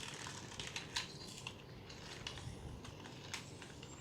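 Faint, irregular light clicks and taps, a handful over a few seconds, with low room noise beneath.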